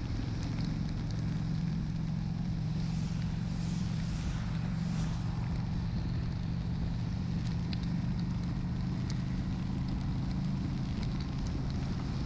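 Honda Shadow 750's V-twin engine running steadily at cruising speed, with wind rushing over the microphone. Scattered small ticks of raindrops hit the lens, and a swell of hiss comes in the middle.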